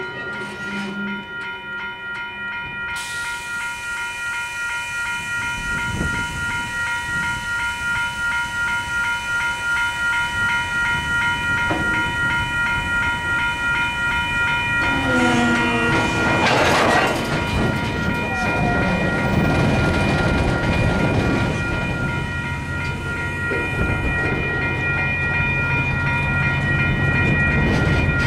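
KiwiRail DX-class diesel locomotives hauling a freight train of wagons, the engines running under a steady high whine while the wheels click rhythmically over the rails. About sixteen seconds in there is a brief, louder burst.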